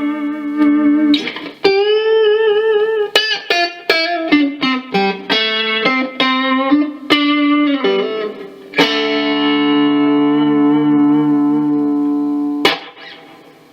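Fender Stratocaster electric guitar played in a sound demo: plucked notes and a short lick, some with wavering vibrato, then a chord left ringing for about four seconds and damped suddenly near the end.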